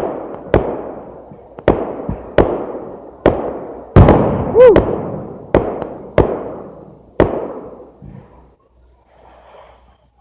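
Aerial fireworks shells bursting: about eleven loud bangs in irregular succession over the first seven seconds, each followed by a long, fading echo. The bursts die away after that, leaving a quiet few seconds.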